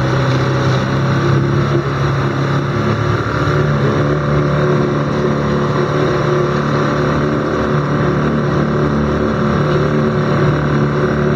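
Motorboat engine running steadily at a constant pitch, with the wash of water and wind around it.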